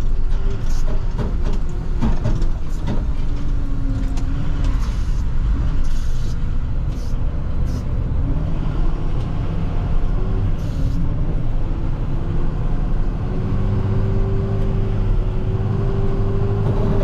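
A plow truck running down the road, its engine drone and road noise heard from inside the cab, with a few knocks in the first few seconds. The engine drone grows stronger about two thirds of the way through.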